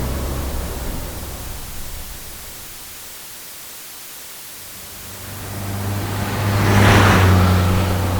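Truck pass-bys. One truck's engine and tyre noise fades away over the first few seconds. Another approaches with a low engine hum, passes loudest about seven seconds in, and begins to recede.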